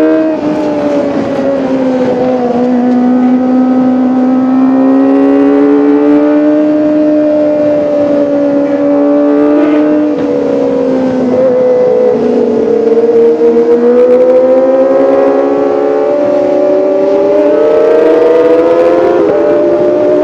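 Kawasaki ZX-25R's 250 cc inline-four engine and exhaust running at high revs, a sustained high-pitched wail whose pitch slowly falls and rises several times.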